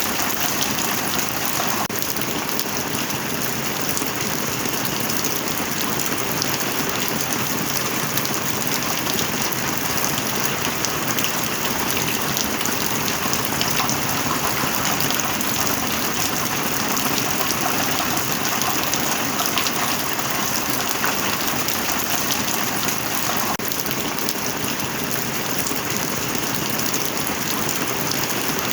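Steady rain falling hard, a dense even hiss flecked with countless individual drop ticks.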